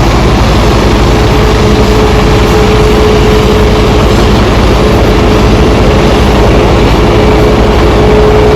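Aircraft engines running steadily and loudly, a deep rumble with one constant mid-pitched tone held throughout.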